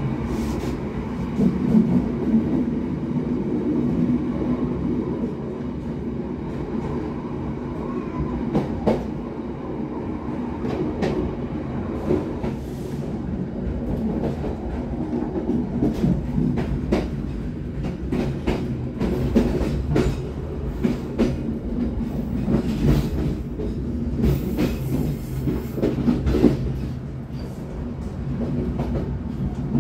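Passenger train running, heard from its rear car: a steady low rumble of wheels on rail, with sharp clicks and clatters as the wheels cross rail joints and switch points. The clicks come thicker in the second half as the train runs over the points of the station approach.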